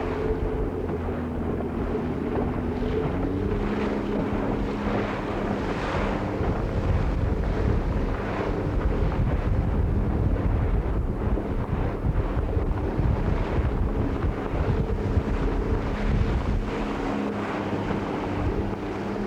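Wind buffeting the microphone on a boat under way, with water noise and a steady motor-like hum that drops in pitch about three seconds in.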